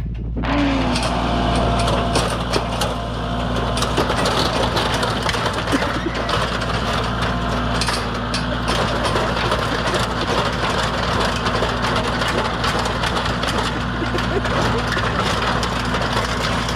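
Engine running steadily, with many short knocks and cracks over it.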